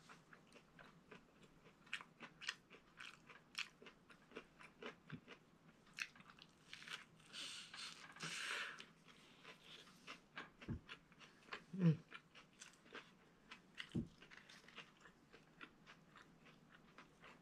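Close-miked eating: a person chewing and biting food, mostly a chicken sandwich, with many small wet clicks and crunches. There is a brief rustle in the middle and a few low thumps, the loudest about two-thirds of the way through.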